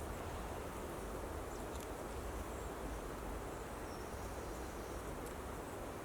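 Steady outdoor background noise in the woods with a low rumble, and a couple of faint clicks partway through.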